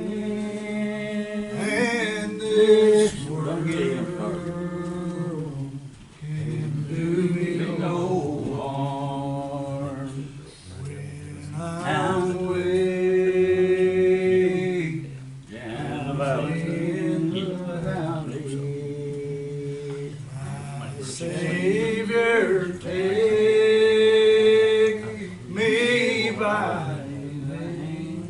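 A man singing a slow gospel hymn in long, drawn-out held notes, phrase by phrase with short breaths between.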